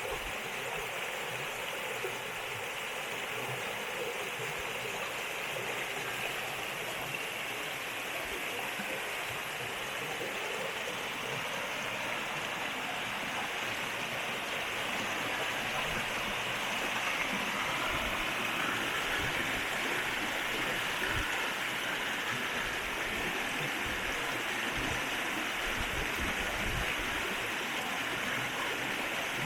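River water flowing over stones, a steady rushing that grows slightly louder about halfway through.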